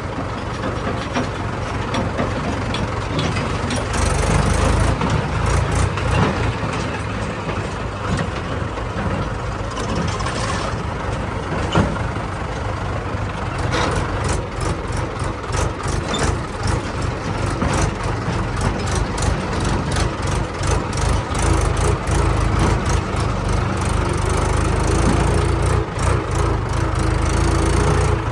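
Heavy diesel engine running steadily, with many short clanks and knocks in the second half.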